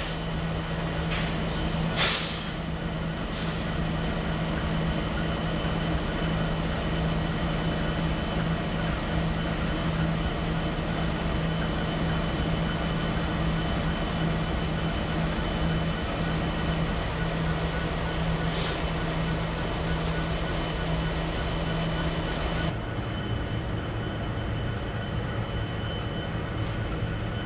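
Heavy diesel vehicle engine idling with a steady hum, with short sharp hisses of released air a couple of seconds in and again past the middle. Near the end the hum shifts abruptly to a lower pitch.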